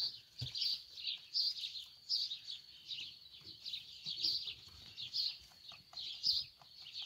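Small birds chirping over and over, short high chirps about once or twice a second, with faint clicks and rustling underneath.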